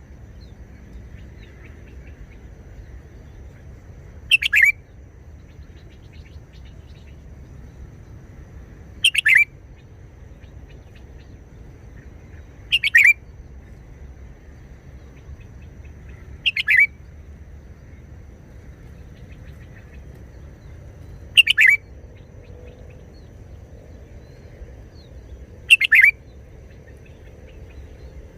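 Red-whiskered bulbul singing short, loud song phrases, six of them about four to five seconds apart, with a faint steady low hum between.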